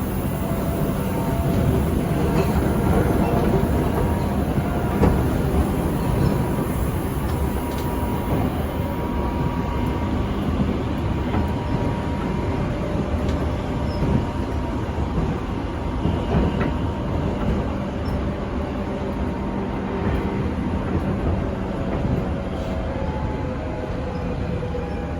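JR 205-500 series electric train running, heard inside motor car MoHa 205-512: a steady rumble of wheels on rail with a faint hum from the traction motors, and a few scattered clicks.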